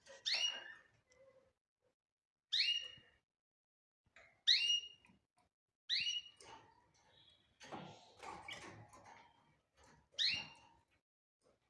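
Cage bird calling: five short, sharp chirps, each falling in pitch, spaced a second or two apart, with a softer scratchy rustle between them near the middle.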